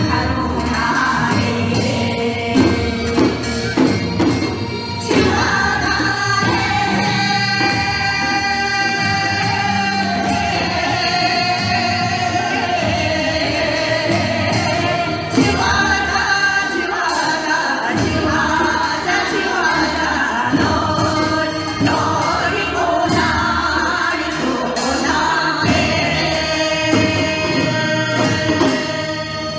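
Gyeonggi minyo, Korean folk-song singing with instrumental accompaniment, the voices holding long sliding notes. It eases off slightly near the end.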